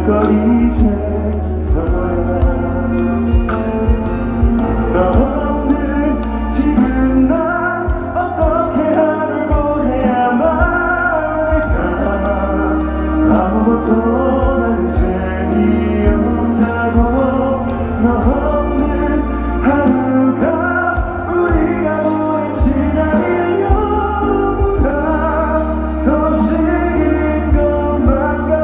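Live pop song performed by a band through a PA system, with a steady bass line under a sung melody.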